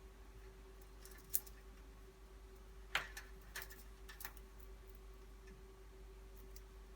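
A few small, sharp clicks and ticks of front-panel header connectors and their leads being handled and pushed onto a PC motherboard, over a faint steady hum.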